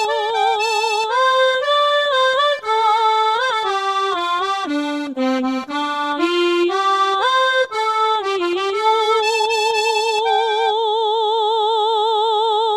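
Accordion music: a sampled accordion plays an enka melody in a steady flowing line, ending on a long held note with a wavering pitch.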